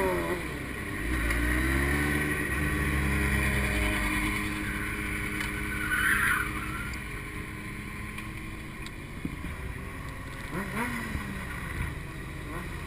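A motor engine running: its pitch falls over the first two seconds, holds steady until about four seconds in, then it fades to a lower rumble.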